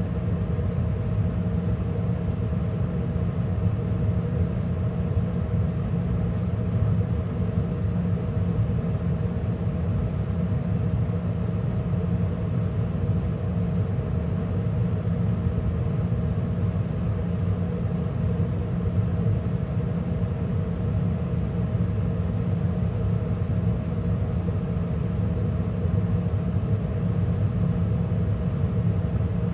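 2013 Carrier gas furnace running steadily mid-cycle, burners lit with the draft inducer and circulating blower running: an even, low rumble with a faint steady hum, unchanging throughout.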